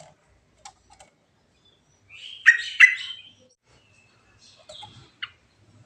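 Yellow-vented bulbul (trucuk) calling: a quick burst of bubbly chattering notes about two seconds in, led by two loud sharp notes, then a few shorter notes near the end.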